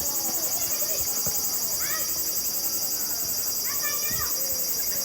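A steady, high-pitched insect drone, with a fine rapid pulsing, runs throughout and is the loudest sound. Distant shouts and calls of children's voices come and go over it.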